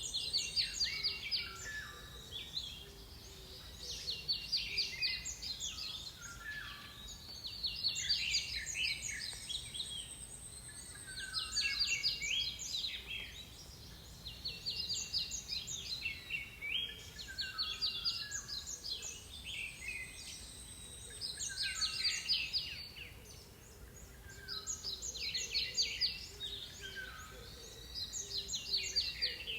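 A songbird singing its song over and over: short phrases of quick, high notes, each about two seconds long, repeated roughly every four seconds.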